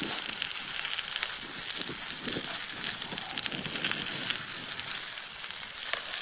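Steak and mushrooms frying in a pan over a campfire: a steady sizzling hiss with many quick pops and crackles.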